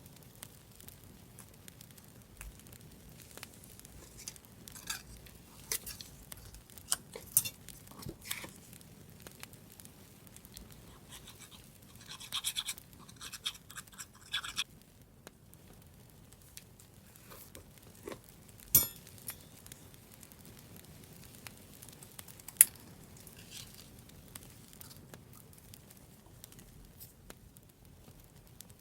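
Paper-crafting handling sounds: scattered taps and clicks on a desk, with a stretch of scratchy rubbing lasting a couple of seconds near the middle and a few sharp ticks standing out. Underneath is a faint background of crackling firewood.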